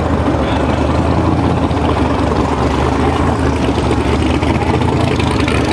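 Drag race car engine idling with a steady low rumble, its pitch holding even with no revving.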